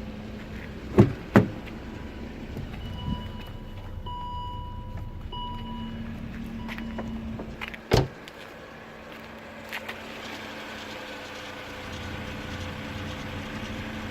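A steady mechanical hum broken by sharp knocks: two close together about a second in, a louder one near eight seconds in, and a couple of faint ones near ten seconds. Thin high tones sound between about three and six seconds in.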